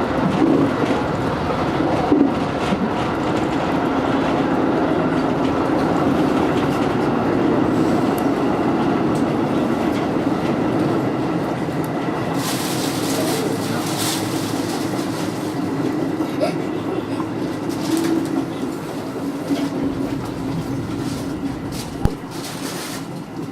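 JR electric train running along the line, heard from inside the carriage: a steady rumble with clickety-clack from the wheels over the rails, brief hissing now and then, and a single sharp knock about 22 seconds in.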